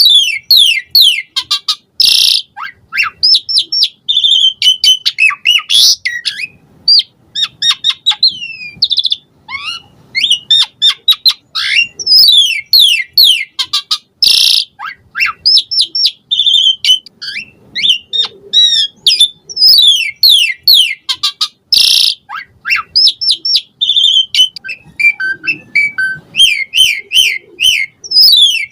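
Asian pied starling singing continuously: fast runs of clear whistled notes, many sliding down in pitch, broken every few seconds by short, loud harsh rasping notes.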